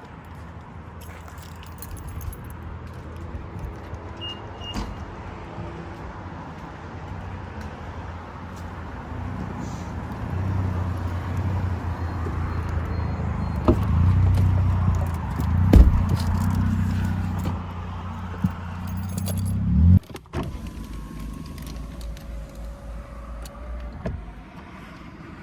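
Turbocharged Toyota Supra engine and exhaust under way: a low drone that builds under load, with sharp exhaust pops twice in the middle. The drone surges and then cuts off abruptly, leaving the car running quietly, with a light jingling rattle throughout.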